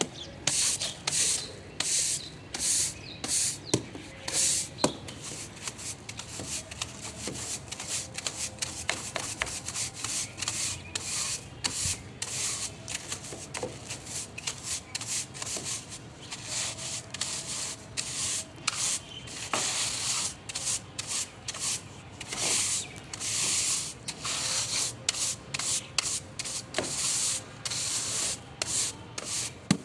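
Repeated dry scrubbing strokes, about two to three a second, with a few sharp clicks in between.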